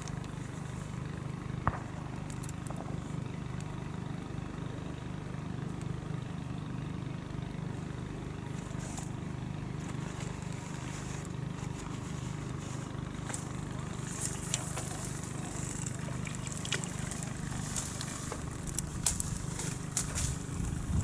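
Steady low mechanical hum of water pumps running continuously, with a few light clicks and rustles in the second half.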